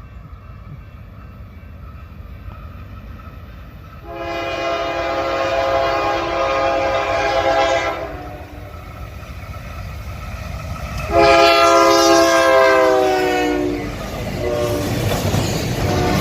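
Locomotive air horn on a Union Pacific GE C44AC sounding two long blasts, the second dropping in pitch near its end as the locomotive passes. The low rumble of the passing locomotives follows.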